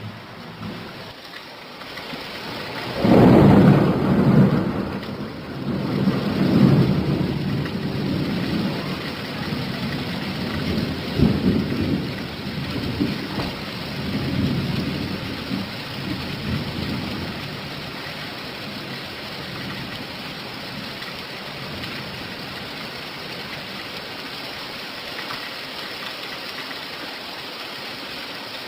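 Steady rain with a roll of thunder that breaks loudly about three seconds in and rumbles away in waves over the next dozen seconds, leaving an even hiss of rain.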